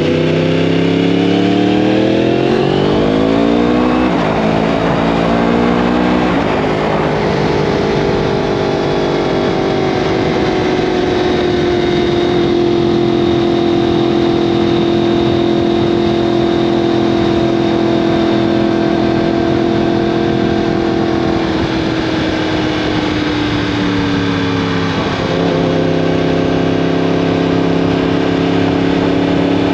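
2015 Yamaha R1M's crossplane-crank inline-four through an Akrapovic exhaust, accelerating hard through the gears: the pitch climbs and drops at each upshift, twice in the first six seconds. It then runs at a steady high pitch, eases off and slows about two-thirds of the way in, and settles into a lower steady note near the end.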